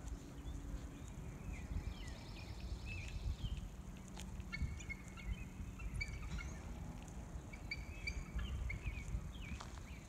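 Birds calling with short, high chirps, several in quick clusters, over a steady low rumble.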